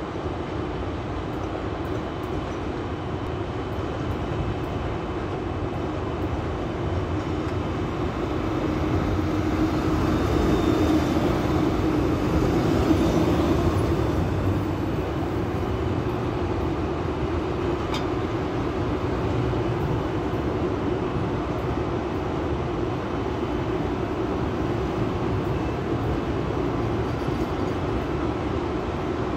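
EP2K electric locomotive and its passenger train running on the rails: a steady rumble with a hum, growing louder to a peak about ten to fourteen seconds in, then holding steady.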